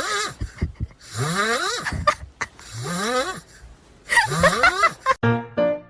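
A pet animal's raspy, pitched calls, four of them under a second each, every rising and then falling in pitch. Piano music starts near the end.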